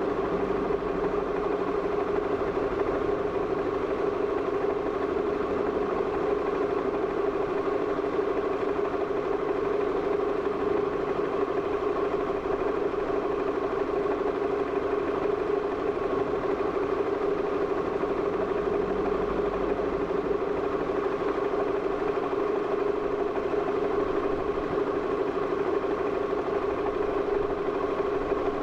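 Steady machine hum with one constant low tone, unchanging throughout, like an idling engine.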